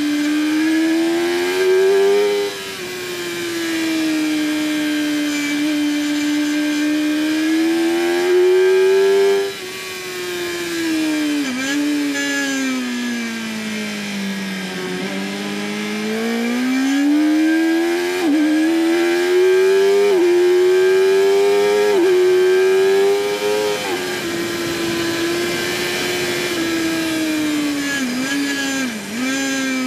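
2008 Yamaha R1's inline-four engine at race pace, heard onboard over rushing wind. The revs climb and then drop sharply at gear changes about two and nine seconds in, fall away steadily under braking around the middle, then climb again, with a few quick dips near the end.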